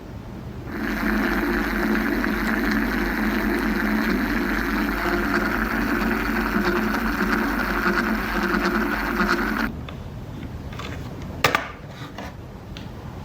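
Small motor driving a plastic Lego gear mechanism, a steady whirring that starts about a second in and stops suddenly after about nine seconds, followed by a single sharp click near the end.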